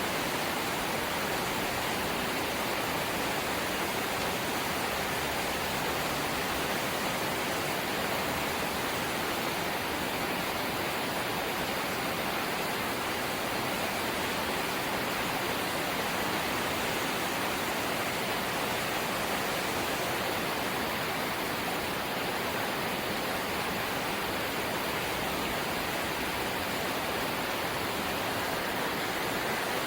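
Rain falling steadily on a corrugated zinc roof, heard as an even, unbroken hiss.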